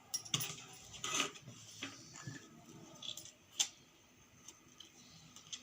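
Scattered light clicks and rustles of cloth and small sewing tools being handled, with no steady machine rhythm.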